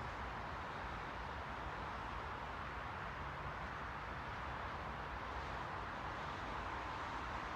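Steady white-noise hiss, even and unchanging, with most of its weight in the middle range and a faint low rumble beneath.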